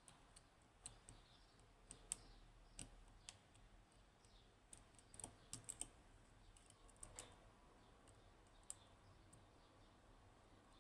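Faint, irregular clicks of a lock pick probing and setting pins inside a Yanai R 2200M high-pin-count lock, with a small bunch of quick clicks near the middle.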